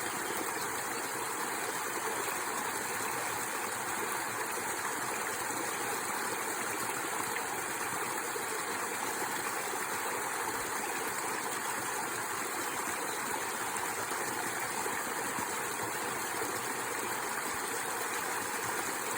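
Mountain waterfall: water falling and splashing in a steady, even rush with no breaks.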